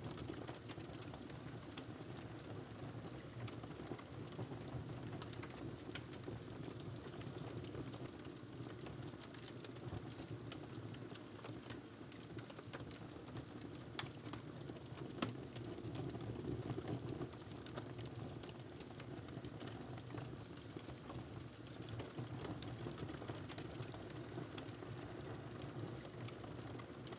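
Wood fire crackling in a fireplace: a steady low rumble with scattered small pops and snaps, and one sharper pop about 15 seconds in.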